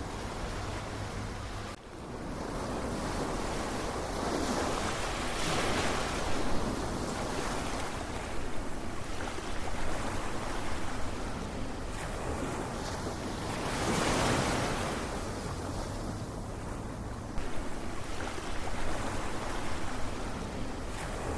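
Ocean surf: waves washing in and drawing back in a steady hiss, swelling louder twice, at about six and fourteen seconds. There is a brief dip in level about two seconds in.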